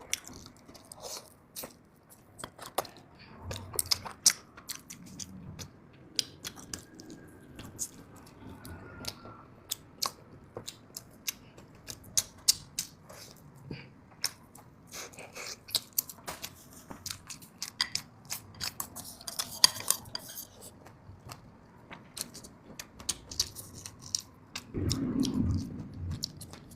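Close-miked mouth sounds of someone eating pig's trotter: chewing and biting, with many sharp, irregular smacking clicks and occasional crunches.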